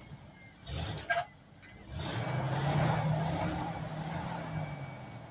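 A sharp knock about a second in, then a vehicle engine running. The engine grows louder about two seconds in and eases off slowly.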